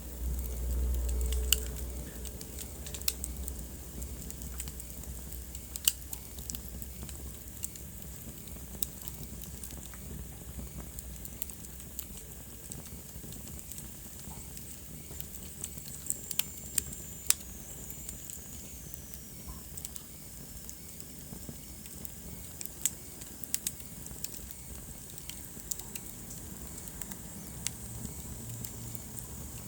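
Wood fire burning in a fireplace: a low rumble of flames, heavier in the first couple of seconds, with scattered sharp crackles and pops from the burning logs. A faint high hiss slides down in pitch about halfway through.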